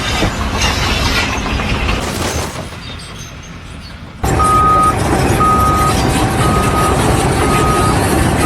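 Heavy vehicle or machine running, and after an abrupt cut about four seconds in, a reversing alarm beeping steadily about once a second over the engine noise.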